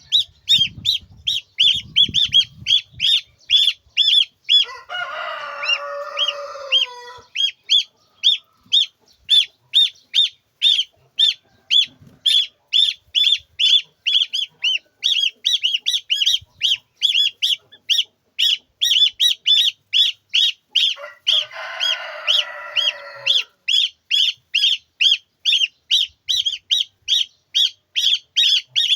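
Chicks peeping nonstop in a fast, even series of short high calls, about three a second. A rooster crows twice over them, once about five seconds in and again around twenty-one seconds, each crow lasting about two seconds.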